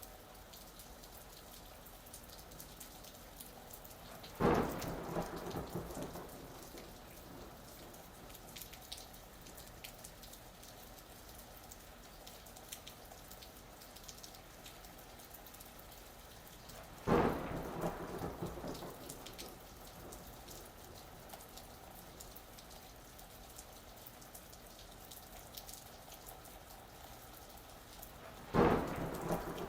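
Steady gentle rain with the patter of drops, broken by three sharp thunderclaps about twelve seconds apart, each crackling and rumbling away over a second or two.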